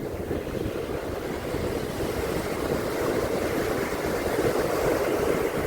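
Ocean surf washing on a beach, a steady rush that swells a little over the last few seconds, with wind buffeting the microphone.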